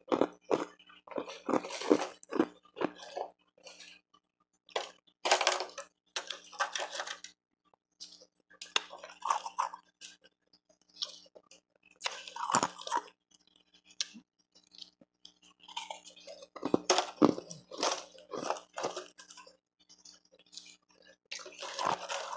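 Close-miked mouth crunching and chewing hard pieces of refrozen ice, in bursts of crackly crunches a second or two long with short pauses between them.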